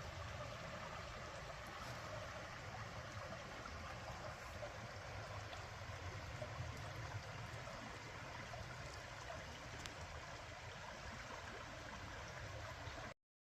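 Steady rushing outdoor noise with no distinct events, like running water, wind or distant traffic. It cuts off abruptly near the end.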